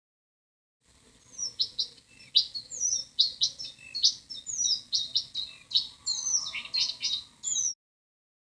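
Recorded bird calls: a dense run of quick, high chirps and short downward-sliding notes, starting about a second in and cutting off abruptly near the end.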